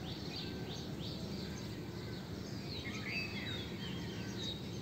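Small birds chirping and whistling, with short scattered calls over a steady low hum.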